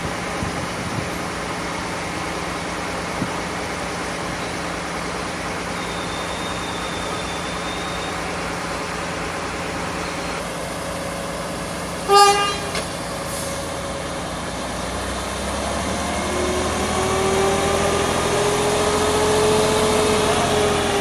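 Diesel railway track maintenance machines (multiple tie tamper and ballast regulator) running steadily. About twelve seconds in, one short, loud horn toot. Over the last few seconds an engine note climbs in pitch and grows louder as a machine revs up or draws closer.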